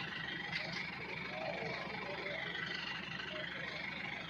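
Heavy farm machinery engine running steadily, a continuous low rumble with no change in speed.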